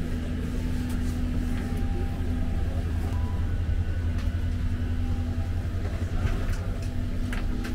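Steady low hum inside a Boeing 767-300's passenger cabin at the gate, from the aircraft's air-conditioning and ventilation, with a few faint clicks and knocks now and then.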